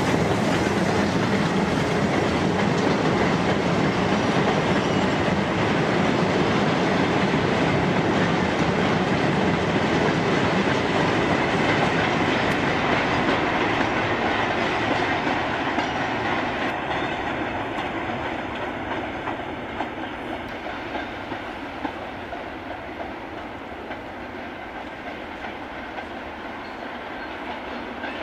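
Steam-hauled freight train passing close by: a long rake of goods wagons clattering over the rail joints, ending with the brake van. About fifteen seconds in the sound begins to fade as the train draws away.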